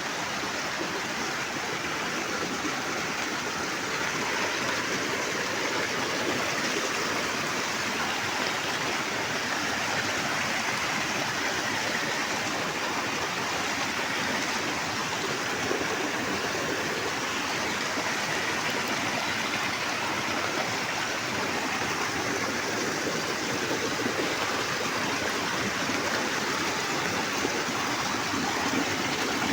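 Heavy rain pouring down steadily, a dense, even rush of water with no individual drops standing out.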